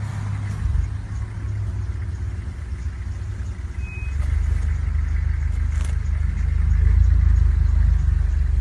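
Vehicle engine idling with a steady low hum that grows louder about four seconds in.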